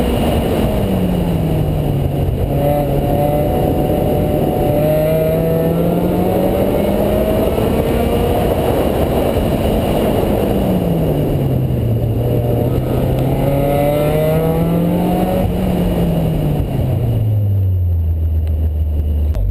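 Mazda Miata's four-cylinder engine working hard through an autocross run, its pitch rising and falling as the driver accelerates and lifts between corners, over a constant rush of wind and road noise. Near the end the engine note drops away to a low idle as the car slows after the finish.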